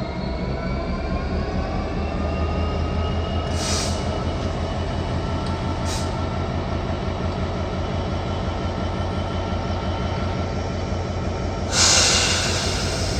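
A train running through the station, a steady low rumble with a whine that rises slowly in pitch as it picks up speed. Three short hissing bursts come a little under four seconds in, at six seconds, and loudest about twelve seconds in.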